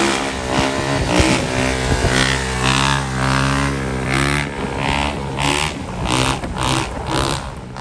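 Motorcycle engine running and revving, its pitch and loudness rising and falling over and over.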